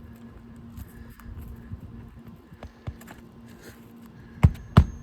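Faint rustling and light clicks of shingles being handled, then two sharp hammer blows on a roofing nail near the end, part of a quick series of strikes.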